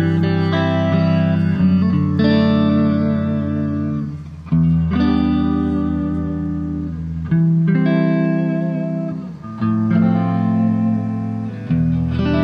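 Electric guitar played through an effects unit, sounding long sustained notes and chords that change every two to three seconds, with short drops in level about four and a half and nine and a half seconds in.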